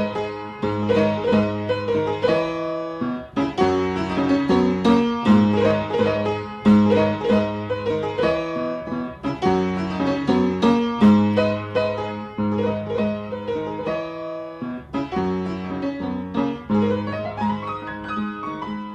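Solo piano playing an instrumental intro: repeated chords over held low bass notes, with no singing.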